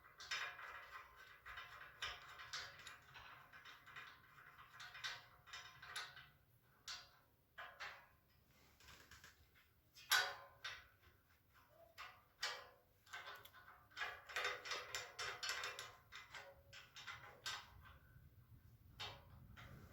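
Faint, irregular clicks and taps of a screw being driven by hand into a metal shelving bar, with metal parts being handled.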